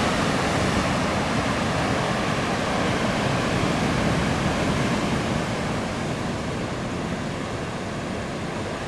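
Heavy surf from a typhoon swell: waves breaking and washing in a steady rush of noise that eases a little after about five seconds.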